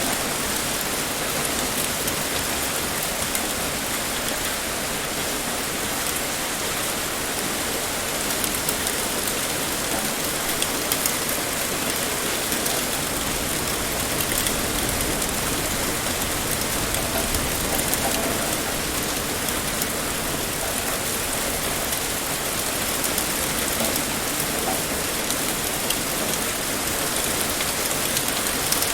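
Heavy rain pouring steadily, a dense even hiss with many small drop patters on a surface.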